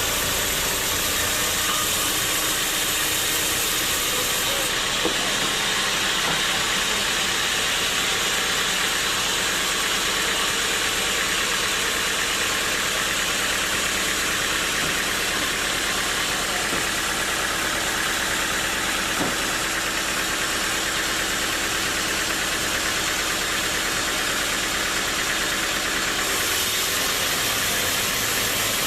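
Sawmill machinery running steadily: a continuous even noise with a steady motor hum underneath, unchanging in level.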